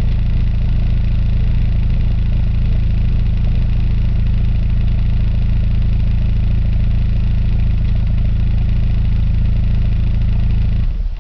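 VW Vento (Jetta Mk3) 2.0-litre four-cylinder engine idling steadily through a Remus aftermarket muffler, with a deep exhaust note; the sound cuts off suddenly near the end.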